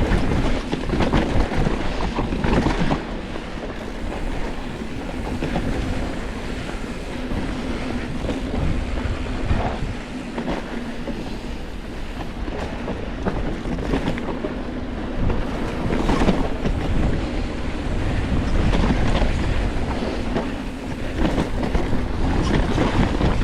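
Electric mountain bike riding fast over rough, rocky trail: wind buffeting the microphone and tyres rolling and clattering over rocks, with many short knocks and rattles and a steady low hum.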